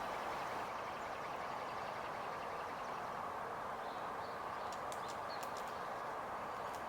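Steady background hiss, and from about two-thirds of the way in, a quick run of light splashes and wing flutters from a robin bathing in a shallow puddle of snowmelt.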